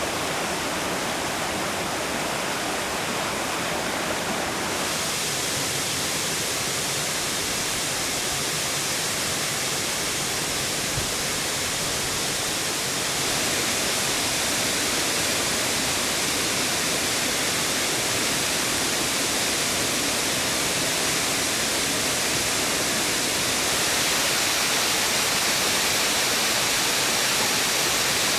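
Waterfall in a mountain stream: falling water rushing in a steady, dense wash of noise. Its tone shifts a few times and it gets slightly louder about halfway through.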